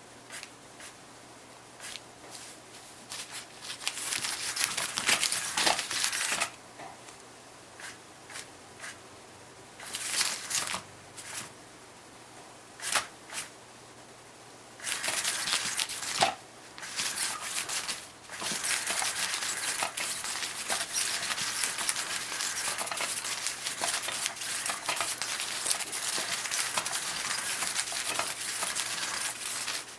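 Cats pawing and scrabbling at the sheet over a moving cat-teaser toy: bursts of rustling, scratching and crinkling. It starts and stops at first, then runs almost continuously through the second half.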